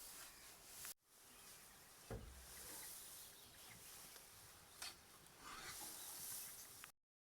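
Near silence: faint outdoor hiss, with one soft thump about two seconds in and a light click a little before five seconds. The sound cuts out completely just before the end.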